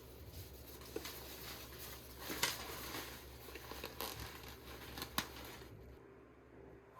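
Irregular rustling and crinkling from small objects being handled, with a few sharp light clicks.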